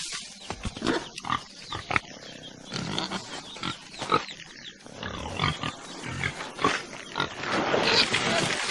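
Animal noises: a string of short, sudden calls and sounds, growing denser and noisier near the end.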